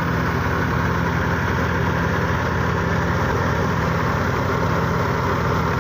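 Tractor engine running steadily, driving a wheat thresher; a constant, even drone with a rapid regular pulse and the thresher's whirring hiss over it.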